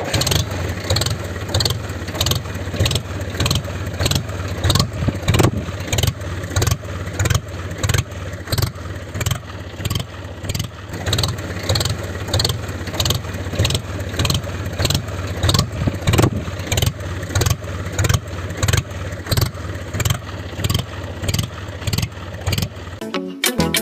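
Tractor engine running with a steady beat of about two to three thumps a second over a low hum; it cuts off shortly before the end.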